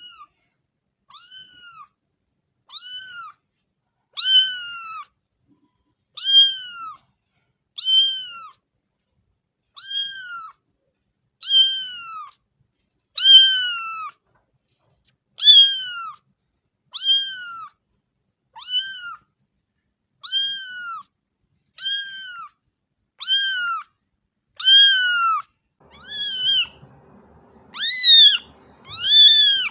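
A cat meowing over and over, one short meow about every second and a half. The meows grow louder near the end, where a faint background noise also comes in.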